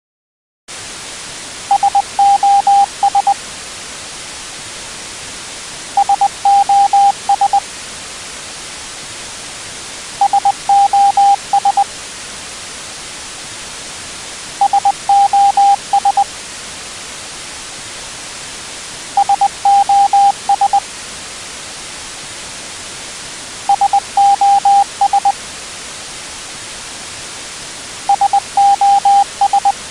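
Steady radio-style static with a Morse-code-style signal: a group of short and longer electronic beeps at one pitch, repeated seven times, about every four and a half seconds.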